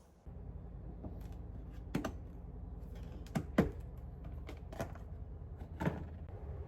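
Irregular sharp clicks and knocks, about seven in all, the loudest a quick pair about three and a half seconds in, over a steady low hum that starts just after the beginning.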